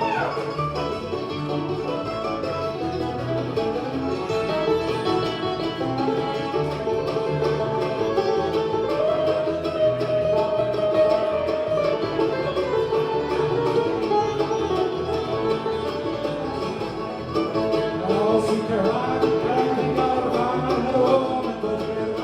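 Live bluegrass band playing a fast number, with banjo prominent over acoustic guitar.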